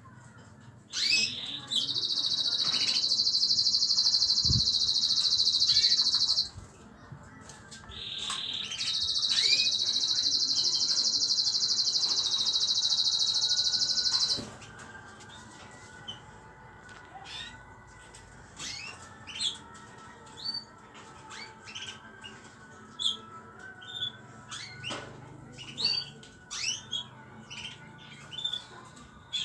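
Small pet cage birds singing: two long, loud, buzzing trills of about four and five seconds, followed by scattered short chirps.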